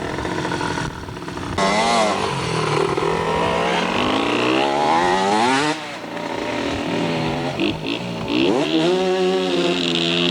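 Dirt bike engine revving, its pitch climbing and falling as it accelerates and backs off, then a second run-up and fall about two-thirds of the way in.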